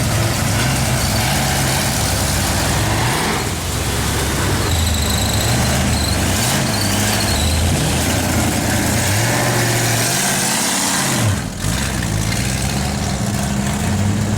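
Car engine running loud and being revved again and again, its pitch climbing and dropping back several times.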